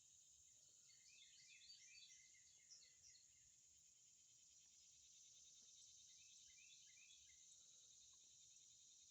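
Faint outdoor ambience: a steady high-pitched insect drone, with a bird singing two short bursts of quick chirps, one about a second in and another around six seconds in.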